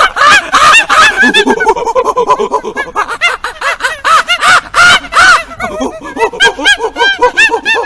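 A flock of birds calling: many short, overlapping calls in quick succession, with no letup.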